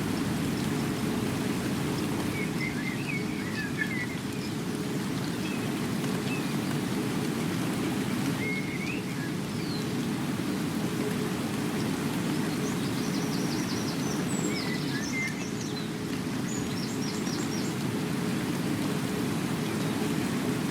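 Steady rain, an even wash of noise that is strongest in the low range. A few short bird chirps and quick trills come through over it, mostly in the second half.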